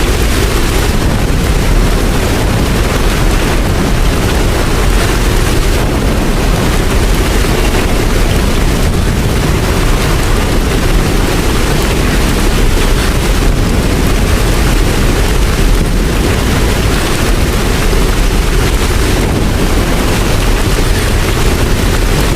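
Steady, heavy rain, an even wash of noise with a deep low end and no clock strike heard.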